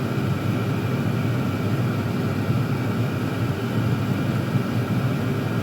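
Several Chinese diesel air heaters running at full output, their blower fans and burners making a steady, even rushing noise with a low hum underneath.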